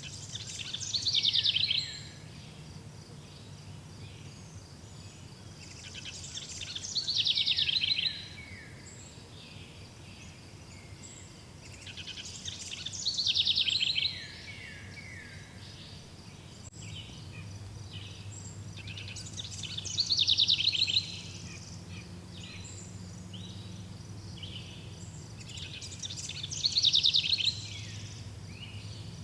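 A bird repeating the same song phrase five times, about every six seconds. Each phrase is a rapid trill that swells, falls in pitch and cuts off sharply, over a steady background of chirring insects.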